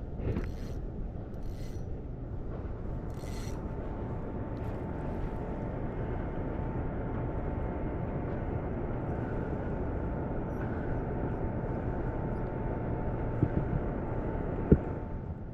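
Steady low rumble with a faint, constant whine over it, like a motorboat's engine running on the water. Two small knocks come near the end.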